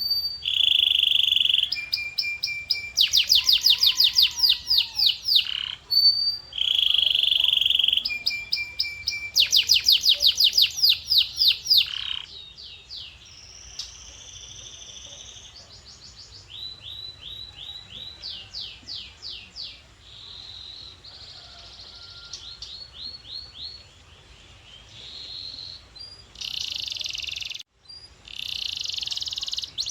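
Male canary singing a long song of trills and rolls: runs of rapid repeated notes and sweeping phrases, changing every second or two. The song is loud for the first dozen seconds, then continues more softly with a short break near the end.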